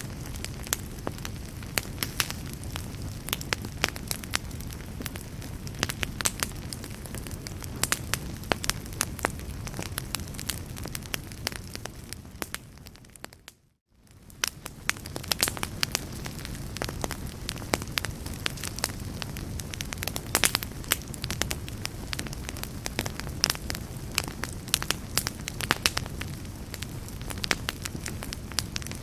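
Wood fire crackling, with frequent sharp pops over a low steady roar of flames. About halfway through, the sound fades almost to silence for a moment and comes straight back.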